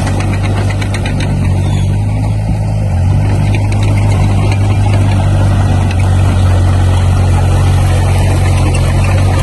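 Diesel engine of heavy earthmoving equipment running steadily with a deep, constant hum, growing a little louder about three seconds in.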